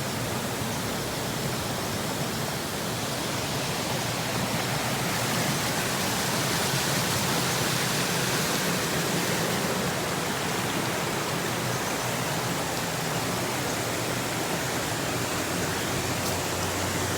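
Steady rush of a waterfall's falling water, an even hiss without breaks, a little louder for a few seconds midway.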